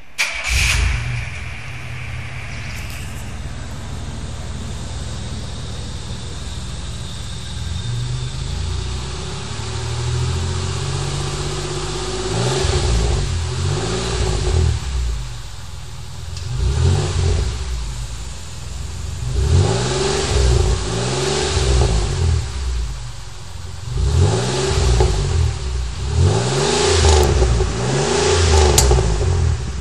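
1997 Chevrolet Monte Carlo's 3.1 V6 exhausting through Dynomax Super Turbo mufflers with the resonator deleted, fed by a K&N cone filter. It idles steadily for about twelve seconds, then is blipped in about five short revs that rise and fall back to idle.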